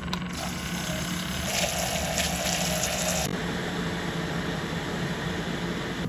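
Water running, rushing harder for a moment before stopping abruptly about three seconds in, with soft background music underneath.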